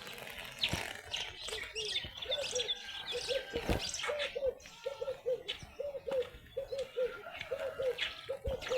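Birds calling: a low two-note call repeated steadily about twice a second, with higher chirps from other birds over it.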